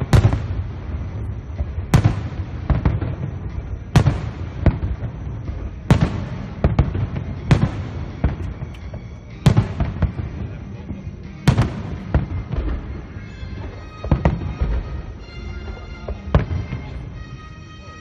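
Aerial fireworks shells bursting in a steady barrage: sharp booms every second or so, some coming in quick pairs.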